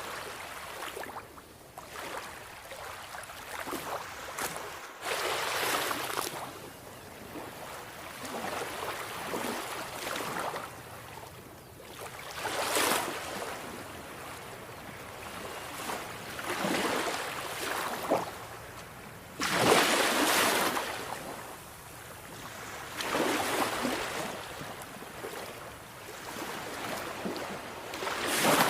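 Sea waves breaking and washing up a shore, swelling and fading every few seconds. The loudest surge comes about two-thirds of the way through, and another comes at the very end.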